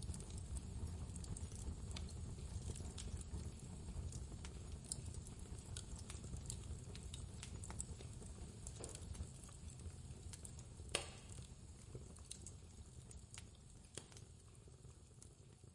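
Wood fire crackling with scattered small pops and one sharper pop about eleven seconds in, over a low steady rumble of blizzard wind that eases off near the end.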